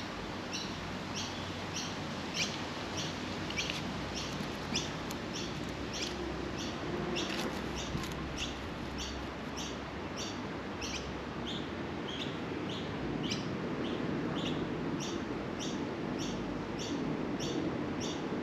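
A bird chirping over and over in an even rhythm, about two short, high chirps a second, over a steady low background hum.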